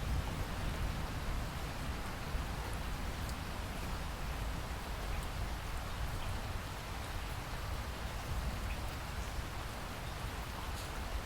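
Steady rain falling, with a constant deep rumble underneath and scattered faint drop ticks.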